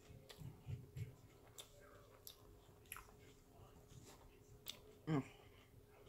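Close-miked mouth-closed chewing of a bite of deep-fried corn dog: faint soft crunches and wet mouth clicks. About five seconds in comes a brief, louder throat sound.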